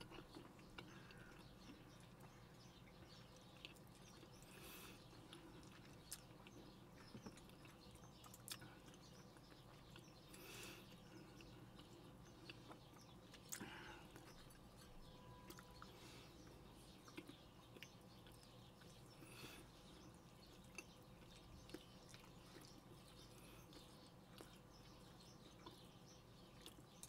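Faint chewing and mouth sounds of a person eating, with scattered soft clicks and a few brief, slightly louder smacks spread through.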